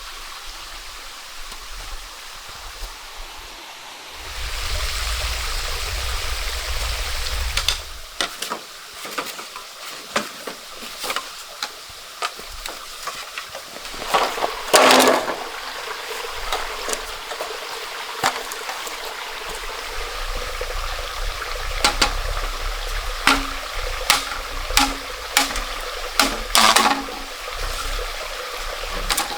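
Running stream water, with scattered knocks and clicks from about eight seconds in and two louder, longer strokes about halfway through and near the end.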